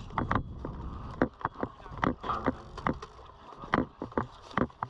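A run of irregular sharp clicks and knocks, about two to four a second.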